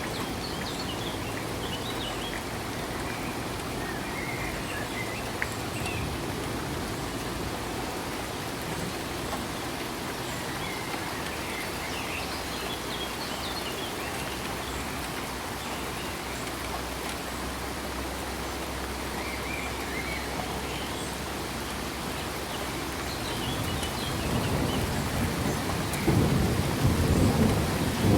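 Steady rain falling, with low rolling thunder underneath; the thunder grows louder near the end.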